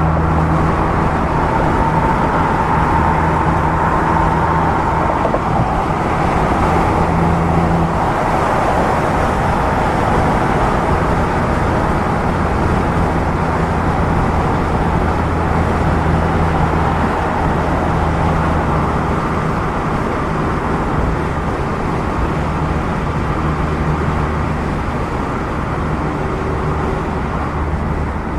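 A 2016 Mazda MX-5 Miata's four-cylinder engine, heard through a Goodwin Racing RoadsterSport race exhaust from the driver's seat. It runs at a steady cruising engine speed, with tyre and wind noise underneath.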